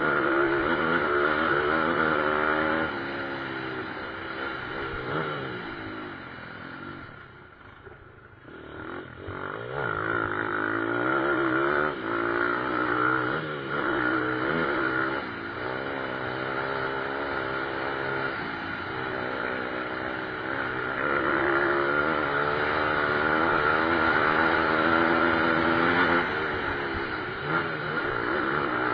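Pit bike engines revving hard while racing, the pitch rising and falling with gear changes and throttle. The sound fades for a moment about eight seconds in, then builds up again.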